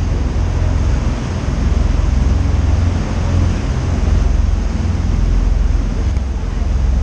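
Steady rumbling noise aboard a moving boat: wind buffeting the microphone over the rush of water along the hull.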